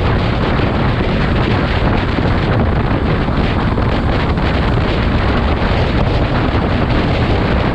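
Steady wind rush on the microphone of a moving motorcycle, with engine and road noise beneath it.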